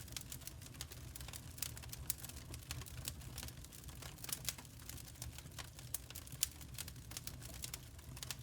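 Wood fire crackling, with irregular sharp pops of uneven loudness over a steady low rumble.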